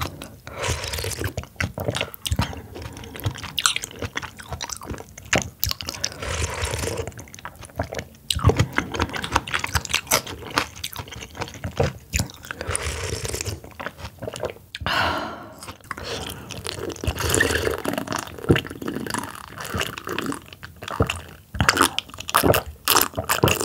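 A person chewing and crunching mouthfuls of raw oyster cold soup close to the microphone, with many short wet clicks and smacks.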